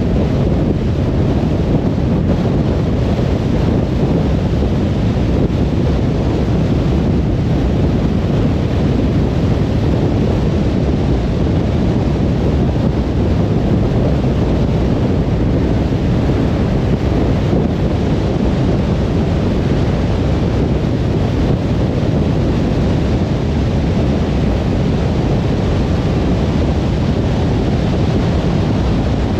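Steady road noise of a car at motorway speed: an even, low wash of tyre and wind noise that does not change.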